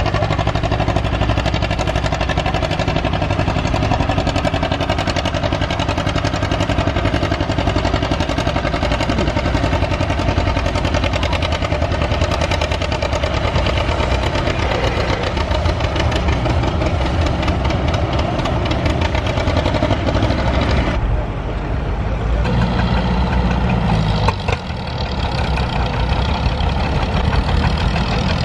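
Tractor engine running steadily. About 21 seconds in, the sound changes abruptly to a different, lower engine note, with a short drop in loudness a few seconds later.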